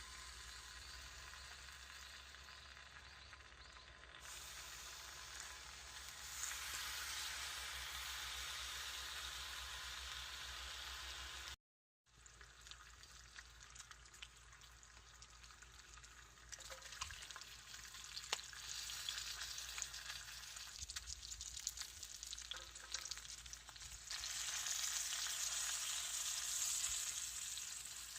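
Bacon-wrapped Camembert sizzling as it fries in a pan, with scattered crackling clicks. The sizzle grows louder about a fifth of the way in and again near the end, and breaks off for an instant around the middle.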